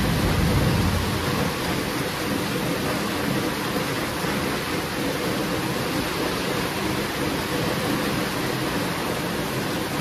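Steady heavy rain falling, with a low rumble of thunder that swells and fades in the first second or so.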